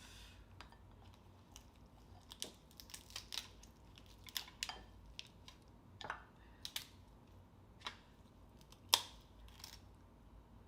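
Close-up eating sounds: scattered crisp clicks and crunches of crab and mussel shells being cracked and picked apart, with chewing. The sharpest crack comes about nine seconds in.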